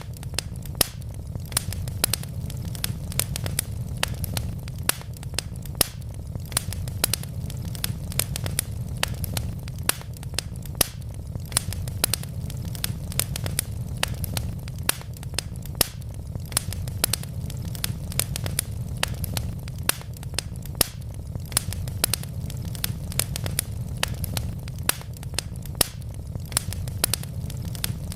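Wood fire crackling steadily, with a constant low rumble and many sharp, irregular pops and snaps from the burning logs.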